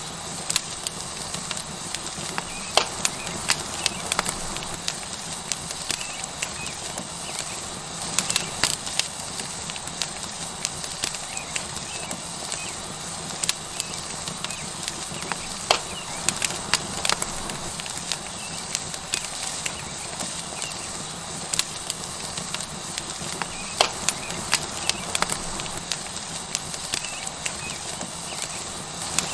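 Tomahawk steak sizzling on a hot rock over a wood fire: a steady hiss with frequent sharp crackles and pops from the burning wood and spitting fat.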